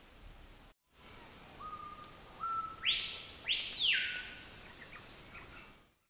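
Rainforest ambience: a steady high insect drone under a bird's whistled call, a level note that steps up slightly, then two loud rising-and-falling sweeps that trail off downward.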